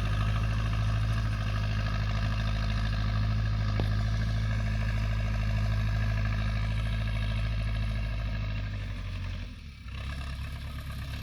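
Tractor engine running steadily under load while pulling a plough. About nine and a half seconds in it eases off to a lower, quieter note and keeps running.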